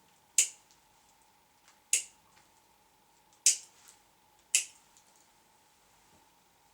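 Grooming scissors snipping through a poodle puppy's coat: four sharp single snips, spaced about a second to a second and a half apart.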